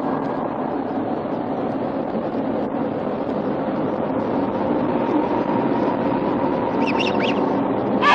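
A steady low droning rumble throughout, with a few short high bird calls about seven seconds in and a louder call right at the end.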